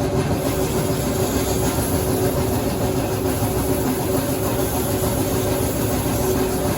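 An engine running steadily, a continuous even hum with a few constant tones and no change in speed.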